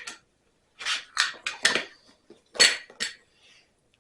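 Handling noise: a quick run of sharp metal clinks and clatters, about six in all, with the loudest about two and a half seconds in.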